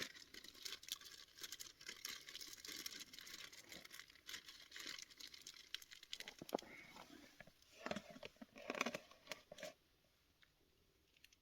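Plastic food wrapping crinkling and rustling while being handled and opened, with a few louder knocks and scrapes about eight seconds in before it goes quiet.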